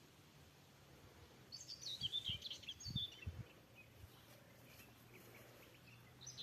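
Outdoor birdsong: quick runs of high chirps and twitters in short bursts, loudest from about a second and a half in to about three and a half seconds, starting again near the end, with a few low bumps among them.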